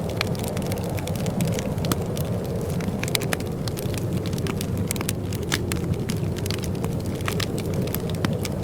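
Wood fire crackling in a fireplace: many irregular sharp snaps and pops over a steady low rumble of the burning fire.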